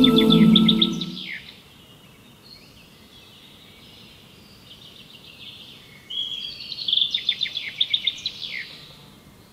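A songbird singing. Its phrases are rapid runs of repeated high notes ending in quick falling slurs: one near the start, fainter calls in between, and a louder phrase from about six seconds in until near the end. Background music fades out within the first second.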